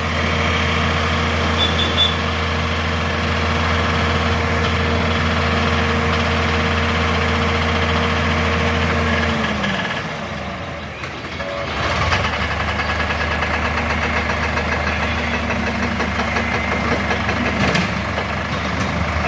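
Heavy diesel engine of a tractor or backhoe loader running at a steady speed; about ten seconds in its note sags and fades, and about two seconds later a rougher engine sound picks up again.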